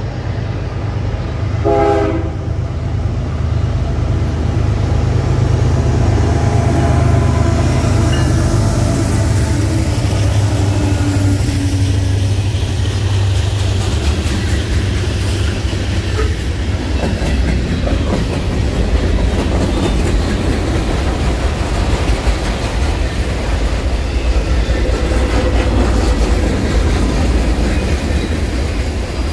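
Canadian Pacific diesel freight train sounding one short horn blast about two seconds in as it approaches. It then rolls past close by, its locomotives and a long string of freight cars making a steady loud rumble with wheels clattering on the rails.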